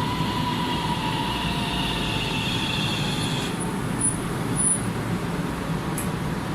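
Portram light-rail tram at the platform, its electric drive giving a whine of several pitches over a steady low rumble; the whine stops suddenly about three and a half seconds in.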